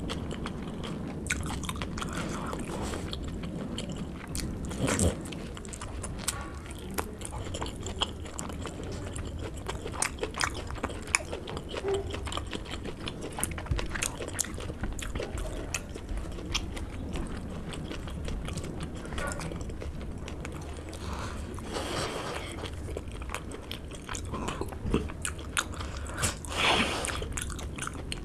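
Close-miked biting and chewing of fatty pork curry with rice: many small mouth clicks and smacks, with a few louder moments about five seconds in and near the end.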